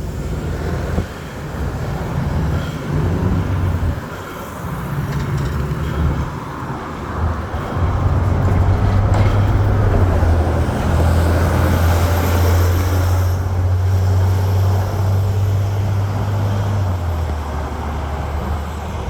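Road vehicle and traffic noise while moving along a city street: a steady low engine drone that grows louder about eight seconds in and eases near the end.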